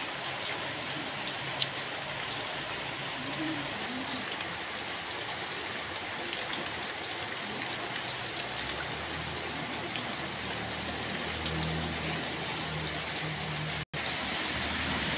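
Steady rain falling on a wet concrete patio and plastic plant pots, an even hiss dotted with small drip taps. A low hum comes in underneath about nine seconds in, and the sound cuts out for an instant near the end.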